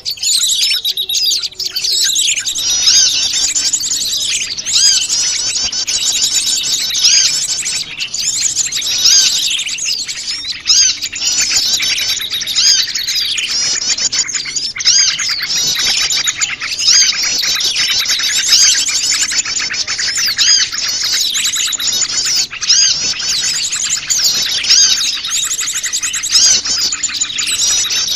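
Noisy chorus of many small wild birds of mixed kinds chirping and trilling over one another without pause, the calls thinner for the first two seconds and then dense.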